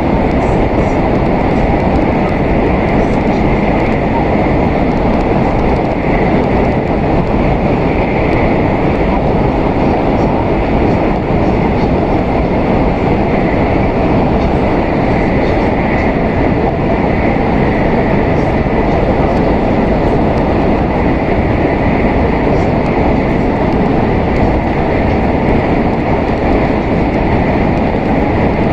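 Steady running noise of an N700S Shinkansen train heard from inside the passenger cabin: an even rumble of wheels and rushing air that holds level throughout, with no distinct clicks.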